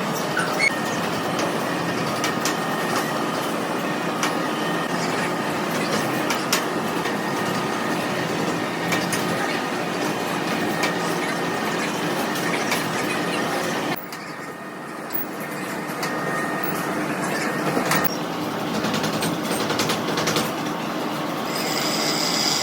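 Heavy industrial machinery running with a steady metallic clatter, scattered clicks and a few steady tones; it drops suddenly about two-thirds of the way through, then builds back up.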